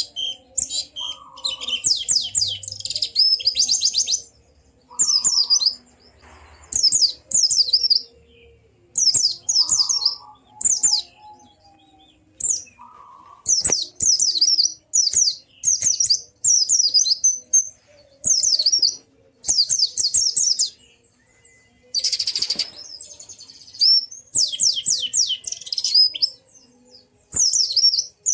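White-eye (pleci) song: fast, high twittering phrases of a second or two each, repeated again and again with short gaps.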